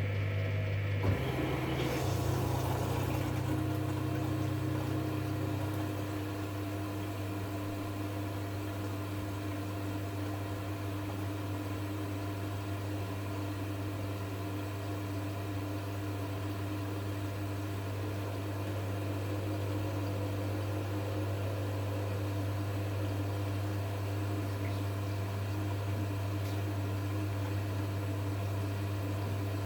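V-Zug Unimatic SL washing machine running in a 40 °C wash programme: a steady low hum, with a click about a second in, after which a second steady tone sets in and holds.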